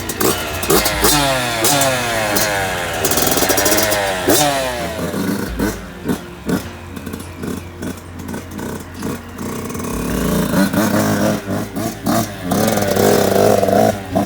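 Dirt bike engine revving hard, its pitch climbing and dropping again several times as it shifts up through the gears, then a choppy stretch of on-off throttle before it pulls steadily again near the end.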